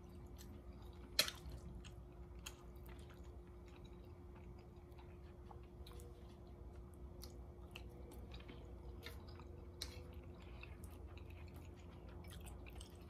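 A person chewing mouthfuls of food close to the microphone, with scattered small clicks, the sharpest about a second in, over a faint steady hum.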